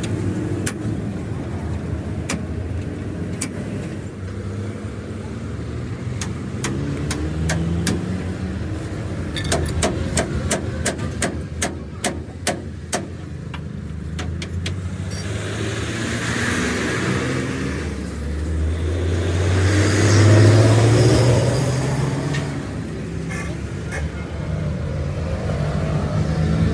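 Motor vehicle engine running, with a run of sharp knocks about ten seconds in and, later, an engine rising in pitch and swelling in loudness with a rush of road noise, like a vehicle driving past.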